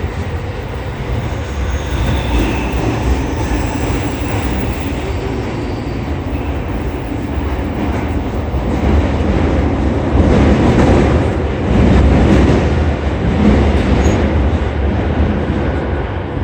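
Running noise heard inside a JR East E231 series 800 commuter train on an underground line: a steady low rumble of wheels on rail and traction equipment, growing louder from about nine seconds in.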